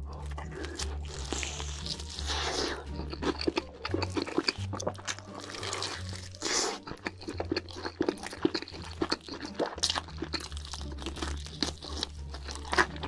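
Close-up crunching and chewing of crispy fried chicken coated in cheese sauce, a dense run of crackly bites, over background music with a low bass line.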